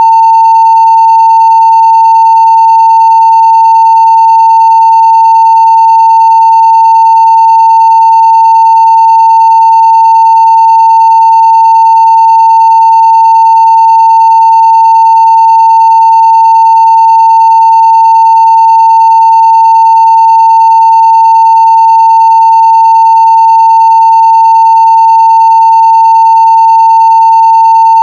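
Steady 900 Hz sine-wave test tone at full-scale (0 dB) level, one unbroken pitch with no change in loudness.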